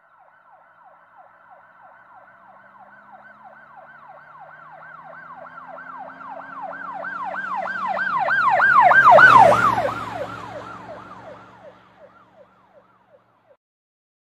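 Emergency vehicle siren sound effect, a fast yelp repeating about three times a second, passing by: it grows louder, peaks about two-thirds of the way through, then drops in pitch and fades away, with a vehicle's rumble underneath.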